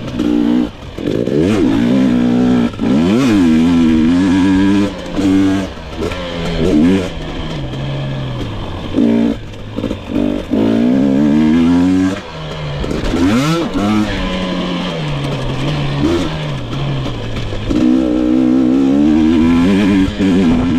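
2022 GasGas EX 250 two-stroke engine revving up and down as the bike is ridden off-road, the throttle opened and chopped every second or two.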